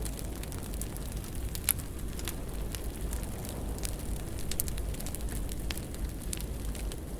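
Fire crackling in a fireplace: a steady low rumble with irregular sharp pops and snaps, one louder pop about a second and a half in.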